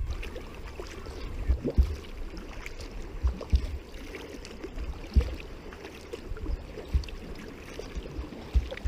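Water splashing and lapping around a sea kayak on the move, with irregular low thumps scattered through.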